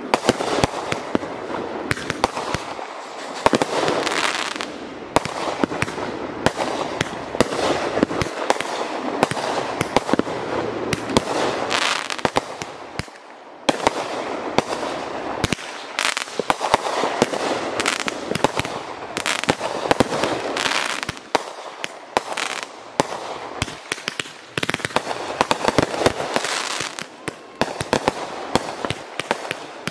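Aerial fireworks bursting in a dense barrage: a rapid, near-unbroken string of bangs over a haze of noise, easing only briefly a couple of times.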